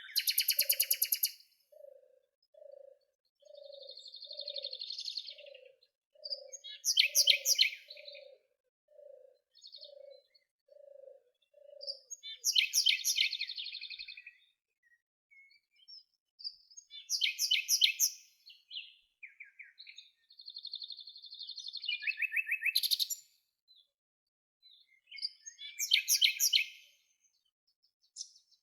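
Songbirds singing: loud, fast trilled and chirping phrases recur every few seconds. For the first twelve seconds or so, a low hooting note repeats about one and a half times a second, then stops.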